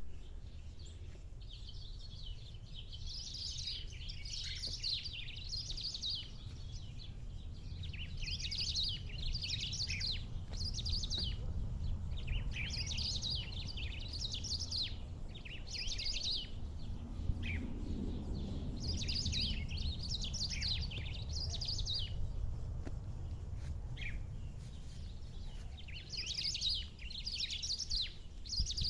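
Black-throated grosbeak (bico-de-pimenta) singing: about five phrases of quick high warbled notes, each three to four seconds long with short pauses between, over a steady low background rumble.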